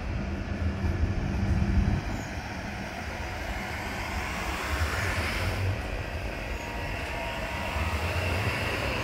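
Low-floor suburban train passing underneath: a continuous low rumble of wheels on rails and running gear, louder with a steady hum for the first two seconds, then evening out.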